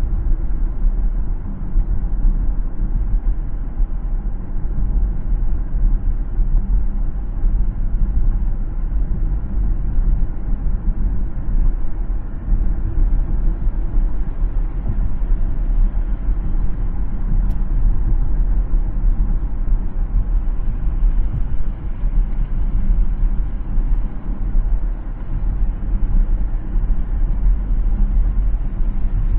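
A car driving on a city road: steady low road and engine rumble with no marked changes in pace.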